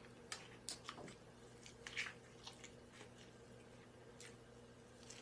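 Faint, wet chewing and mouth smacks from someone eating a soft French toast breakfast sandwich, in scattered short clicks over a low steady hum.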